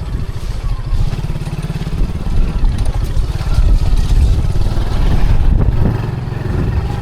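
Motor vehicle engine running under way, a steady low pulsing rumble with road noise, growing louder about a second in.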